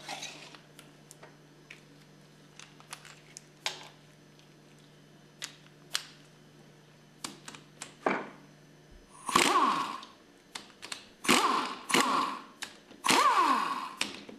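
Small metal clicks and knocks as tools and pump parts are handled. About two-thirds of the way in, a power driver with a 6mm hex bit starts running in short bursts of about a second, four times, its pitch rising and falling as it backs out the pump-head bolts.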